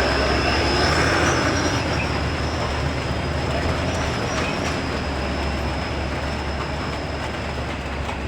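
Heavy truck engine labouring on a steep climb, with a steady high whine above it and a constant rushing noise, slowly fading.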